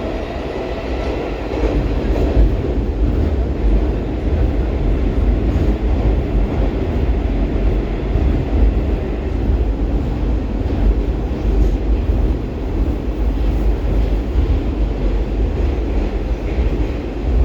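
Baltiets metro train running at speed through a tunnel, heard from inside the car: a steady, loud rumble of wheels and running gear on the rails. A motor whine fades out about a second in.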